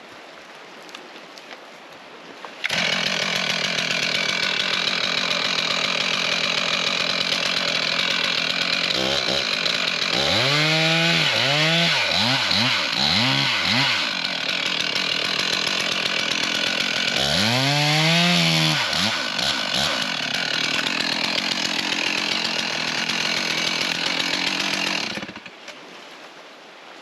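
Chainsaw running while bucking a fallen tree; it starts abruptly about three seconds in, its engine pitch rising and falling several times in quick succession in two spells, and it stops abruptly near the end.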